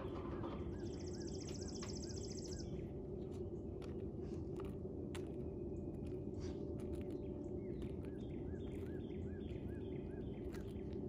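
Outdoor background noise with a bird singing a repeated chirping phrase, about two chirps a second in two runs, and a short rapid high trill about a second in. Scattered faint clicks and taps sound throughout.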